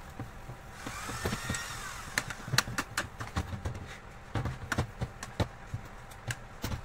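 A short whir that rises and falls in pitch, then a run of sharp clicks and knocks, like parts and tools being handled.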